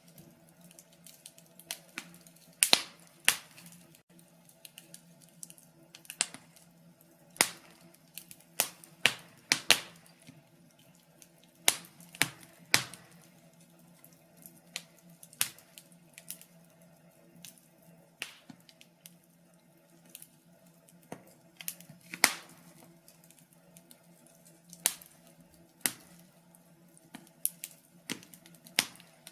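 Wood fire in a fireplace crackling, with irregular sharp pops and snaps, a few every couple of seconds and some much louder than the rest, over a faint steady hum.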